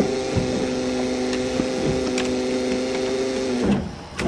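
Inside a stalled 1982 Toyota Cressida: a steady humming tone over a low rumble, which cuts off abruptly shortly before the end.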